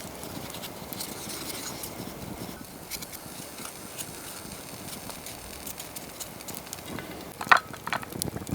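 Wood fire in a camping brazier, crackling steadily with scattered small pops. Near the end come a few sharper clicks and knocks.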